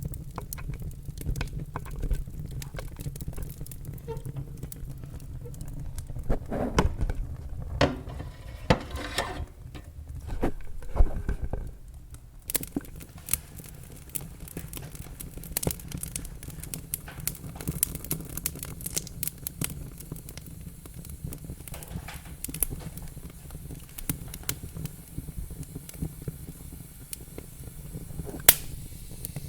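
Wood fire in a fireplace crackling, with frequent sharp pops over a steady low rumble of the flames; a few louder pops come in the middle and near the end.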